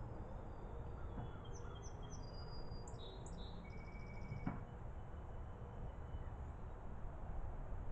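A small songbird chirping: a run of short, high, quick notes and a brief rapid trill in the middle, over a steady low rumble of outdoor background noise.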